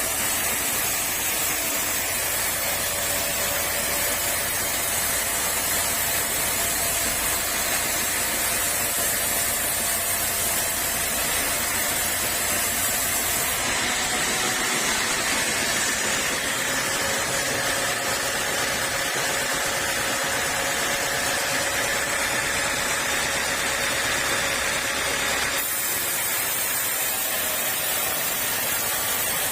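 Sawmill saw running steadily through teak, a continuous hissing machine noise with a faint steady hum. Its tone shifts abruptly about halfway through and again near the end.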